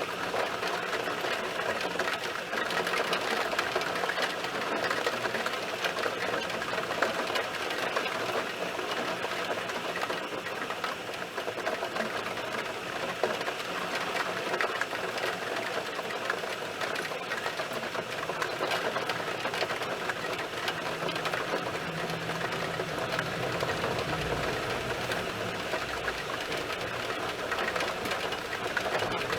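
Heavy thunderstorm rain falling, a dense, steady rattle of drops hitting a surface.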